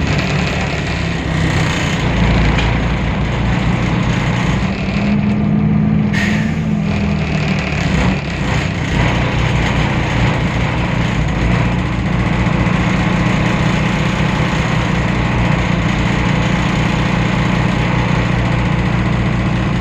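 Temsa Avenue LF city bus's DAF PR 228 six-cylinder diesel engine running under way, with a strong low pulsing drone that shifts in pitch a couple of times early on. It is the heavy vibration and strange sound this bus is known for.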